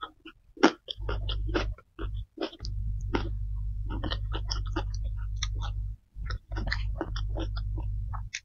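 Close-up chewing: wet mouth clicks and smacks as a mouthful of food is eaten with the fingers. A steady low hum sits under it for most of the time, cutting in and out abruptly.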